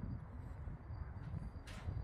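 Strong wind buffeting the microphone: a gusty, uneven low rumble, with one brief sharp rustle near the end.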